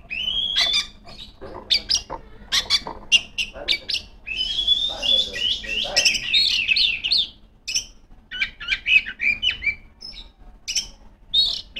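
Oriental magpie-robin (kacer) singing a loud, varied song of quick whistled slurs, chattering runs and sharp clicks in short bursts, its song filled with mimicked notes of other birds.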